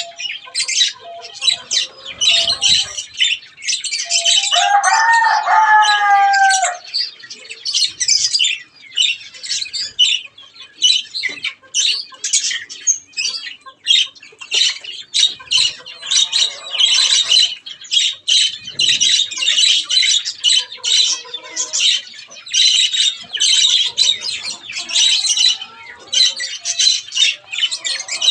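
A flock of budgies chattering and chirping without a break, in quick high calls. About five seconds in, a lower, longer call from another bird bends in pitch for a couple of seconds.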